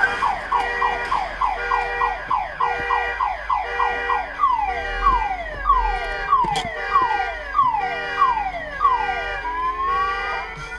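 Car alarm sounding: a rapid train of falling electronic chirps, about two to three a second and slowing a little after a few seconds, over a lower tone that switches on and off. A rising whoop comes near the end.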